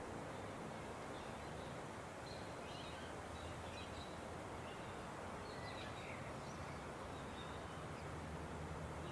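Faint, scattered bird chirps over a steady outdoor background hiss and low hum.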